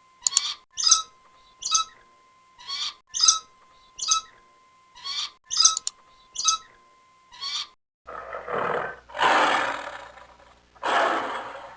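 A bird calls in short, high, repeated notes, about one a second. About eight seconds in this cuts to a larger animal giving long, rough calls, each over a second.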